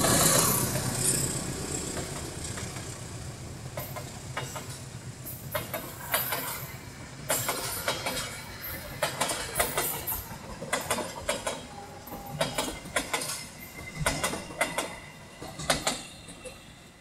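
Passenger train passing at speed behind a CC 206 diesel-electric locomotive: the locomotive's steady engine hum is loudest at the start and eases off over the first few seconds, then the coaches' wheels clatter over the rail joints in irregular clicks, fading near the end.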